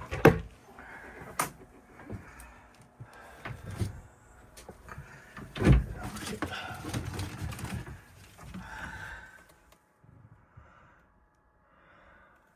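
A run of knocks and thumps from handling and moving about in a confined space, the loudest about halfway through, followed by a few seconds of rustling and scraping, then it goes much quieter near the end.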